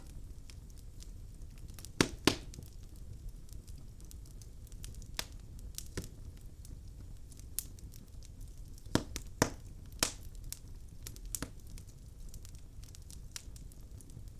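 Logs burning in a fireplace, crackling: irregular sharp pops and snaps over a low steady rumble, with the loudest pops about two seconds in and again around nine to ten seconds in.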